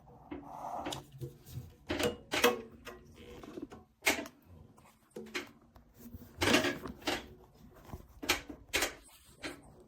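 Hard objects being handled: about a dozen irregular knocks and clicks, some louder than others.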